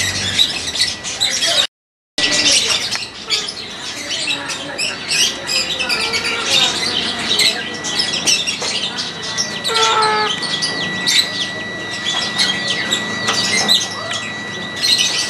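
Many small birds chirping and squawking at once, a dense, continuous chatter of short overlapping calls. The sound cuts out completely for a moment about two seconds in.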